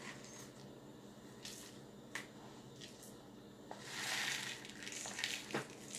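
Handling of the plastic soda bottle bird feeder: a few light clicks, then a rustling crinkle about four seconds in.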